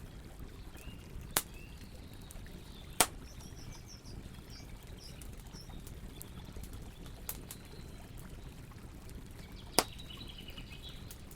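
Campfire burning, with four sharp pops of burning wood over a low steady rush; the loudest come about three seconds in and near the end. Faint bird chirps come in a few times.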